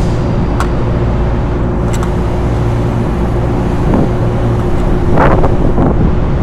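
Steady low mechanical hum with wind on the microphone. A few light clicks and taps of hardware are heard as a motor is fitted to its mounting plate, the clearest about five seconds in.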